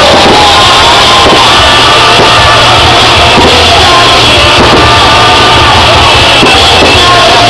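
Loud music with a crowd singing and shouting along, steady throughout.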